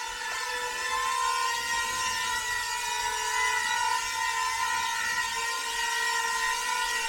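Toy quadcopter drone in fighter-jet styling hovering, its four small motors and propellers giving a steady high whine that wavers slightly in pitch.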